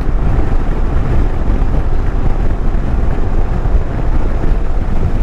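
Steady wind rumble on the microphone of a motorcycle riding at road speed, with engine and road noise mixed in.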